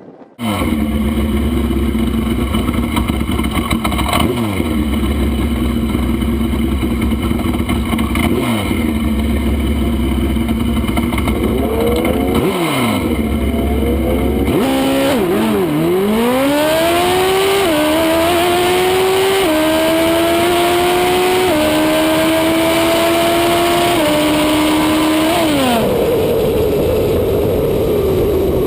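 Drag-racing motorcycle engine, heard from on the bike, revved briefly three times at the line, then launched. It pulls hard through four upshifts, each marked by a sudden drop in pitch, and winds down near the end as the throttle is rolled off.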